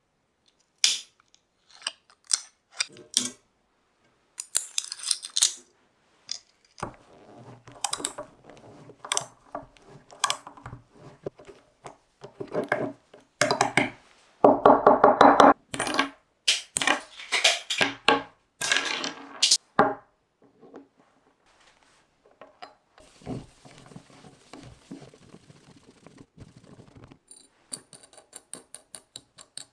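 Metal parts and hand tools being handled on a workbench: a string of clicks, knocks and clatter, with a short pitched scraping or squeal about halfway through and a run of rapid, even ticks near the end.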